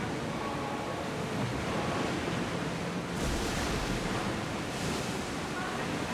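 Sea waves washing steadily with some wind, swelling in two louder surges about three and five seconds in.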